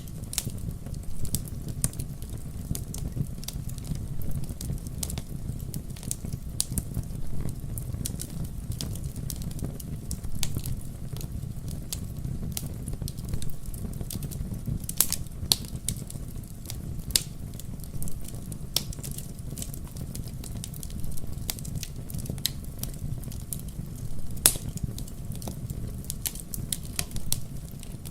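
Wood logs burning in a fireplace: irregular crackling and sharp pops over a steady low rumble of the fire, with a few louder pops.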